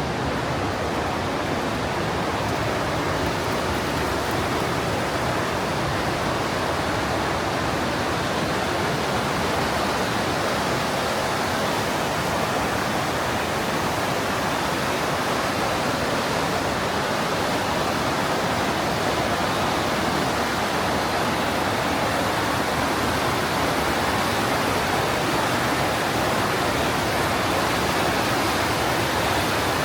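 Partnach River, a glacial-meltwater mountain stream, rushing through the gorge: a loud, steady rush of fast water.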